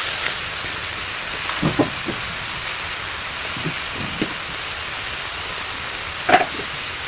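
Beef and bamboo-shoot stir-fry sizzling in the pan, a steady hiss, with a few light knocks of a utensil and one louder clink about six seconds in.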